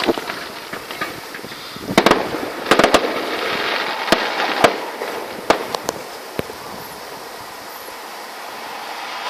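Fireworks going off: a run of sharp bangs with crackling between them, densest a couple of seconds in and thinning out in the last few seconds.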